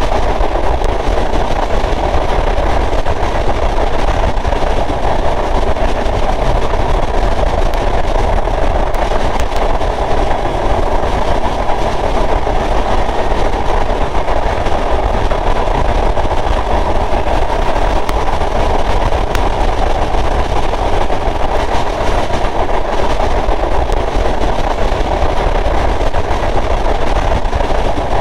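Sundarban Express passenger train running steadily along the track: a continuous loud rumble and rushing noise with no change throughout.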